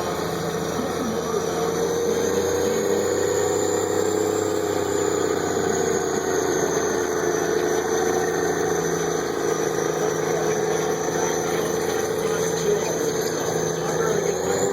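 Tractor engine running hard and steadily during a pull, its pitch drifting slowly up and down, with a thin high whine alongside.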